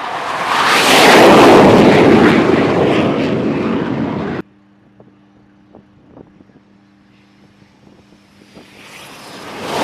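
Jet roar of a T-45 Goshawk's Rolls-Royce Adour turbofan taking off from an aircraft carrier's flight deck, swelling to its loudest about a second in, easing off, then cut off abruptly at about four seconds. A low steady hum with a few clicks follows, and jet noise builds again near the end.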